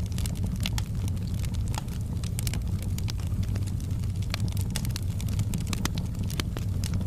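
Wood fire burning in a fireplace: frequent sharp crackles and pops, irregularly spaced, over a steady low rumble.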